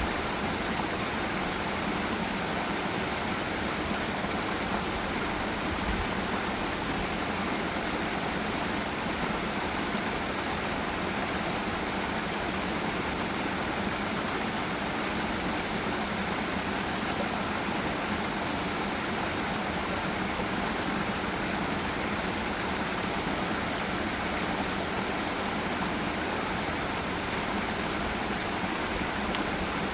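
Steady, even rush of water from a forest river's waterfall.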